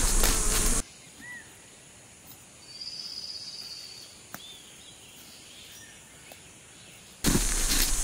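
Quiet forest ambience with a few short bird chirps and one thin, high trill held about a second. It is framed by loud rushing noise with crackles at the start and again near the end.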